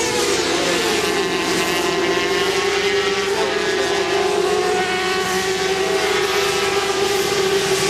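Several 400 cc supersport racing motorcycle engines held at high revs. The strongest engine note dips slightly in the first second, then holds steady.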